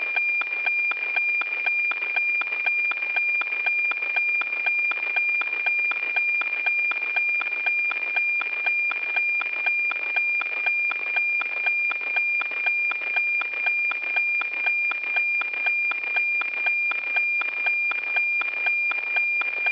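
NOAA-18 weather satellite APT image signal received by radio: a steady high tone with a regular ticking rhythm about twice a second. The ticks are the sync pulses at the start of each scan line of the cloud image.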